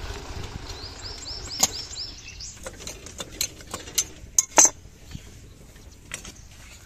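Several sharp metallic clinks and knocks, irregularly spaced and loudest near the middle, after a quick run of short high chirps about a second in.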